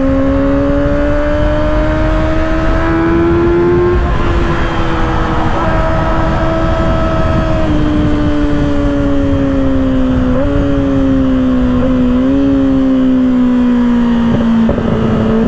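Kawasaki ZX-6R 636 inline-four with an M4 exhaust running hard at highway speed. Its note rises over the first four seconds as it accelerates, then slowly falls as the throttle eases, with two brief dips about two-thirds of the way through. Heavy wind rush on the microphone.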